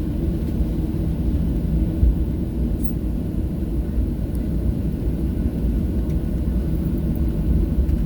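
Boeing 737-700 cabin noise with the CFM56 engines running: a steady low rumble heard from a passenger seat.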